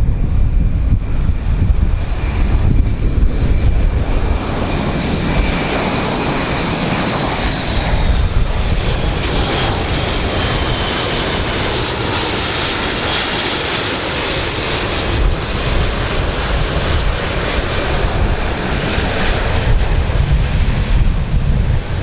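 Large airplane's jet engines, a deep rumble with a high whine that slides down in pitch around the middle as the aircraft goes by.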